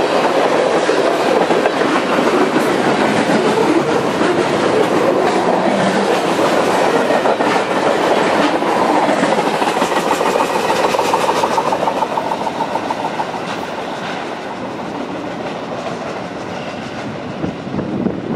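Freight cars of a passing train rolling by on the rails, a steady rolling noise with wheel clicks, fading from about twelve seconds in as the end of the train moves away.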